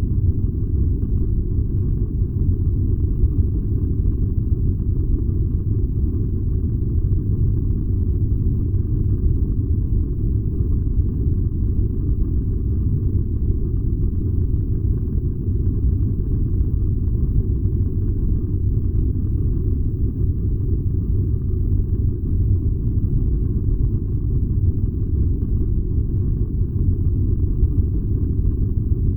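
Furnace running with a steady low rumble, even and unchanging throughout.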